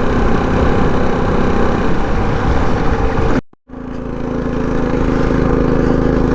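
Predator 224 single-cylinder four-stroke engine of a minibike running at a steady pitch, with wind noise on the microphone. The sound cuts out completely for a moment a little past halfway, then the engine carries on steadily.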